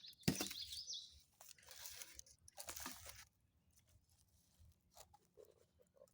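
Faint crunching and crackling sounds, loudest in the first three seconds, with a bird's brief warbling call at the very start.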